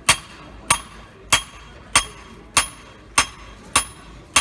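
Blacksmith's hammer striking metal on an anvil in a steady rhythm, about one and a half blows a second, each blow ringing briefly.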